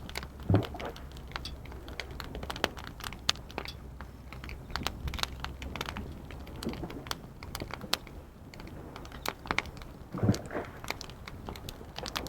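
Wood fire crackling, with frequent sharp irregular pops and a couple of duller low thuds, about half a second in and near the end, over a steady low rumble.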